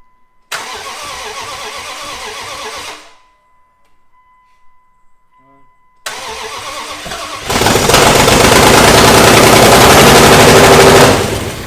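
Freshly rebuilt V8 in a second-generation Dodge Ram being cranked by its starter for a couple of seconds without catching. After a pause it is cranked again, fires and runs loud through open headers for about three and a half seconds, then cuts out near the end.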